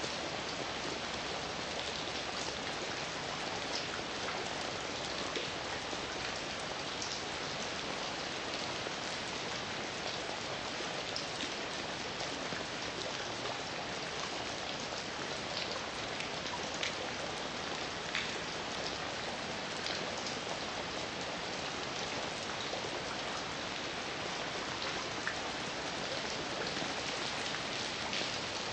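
Steady heavy rain falling, a constant hiss with scattered individual drops striking a surface.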